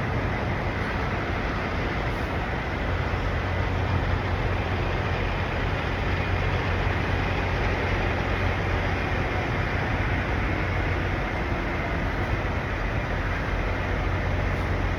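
Semi trucks' diesel engines running steadily: a constant low hum under an even wash of noise.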